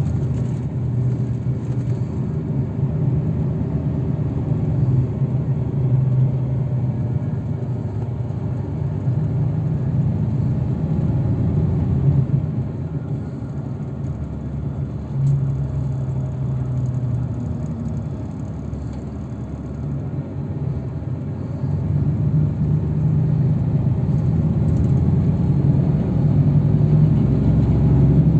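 Shuttle vehicle driving on the road: a steady engine and tyre rumble, the engine note rising and falling with speed and growing louder over the last few seconds.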